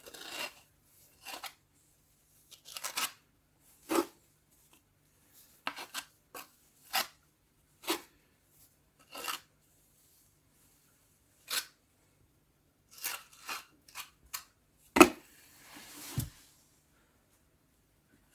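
Scattered short knocks, taps and scrapes of hand work with objects, coming at irregular intervals. The loudest is a sharp knock about 15 s in, followed by a rustling scrape and a dull thump.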